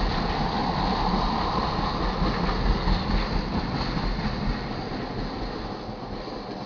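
Freight train of crude-oil tank cars rolling past: a steady rumble and hiss of wheels on rail that starts fading about two-thirds of the way through as the train moves away.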